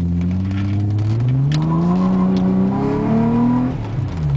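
Acura RL V6 engine breathing through a Remus cat-back exhaust and aftermarket intake, accelerating: the engine note climbs steadily in pitch for about three and a half seconds, then falls away near the end as the revs drop. The owner calls the tone deep and really nice.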